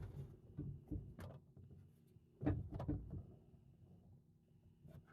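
Gear being handled and set down: a series of short knocks and clatters, loudest about two and a half seconds in, then settling down.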